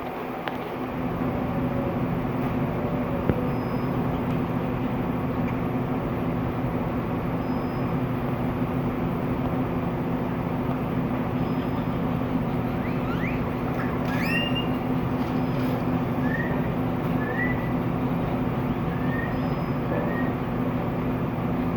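Small birds chirping over a steady low mechanical hum. About two-thirds of the way in come a quick cluster of rising chirps, then several short upward chirps a second or two apart, with faint high pips earlier on.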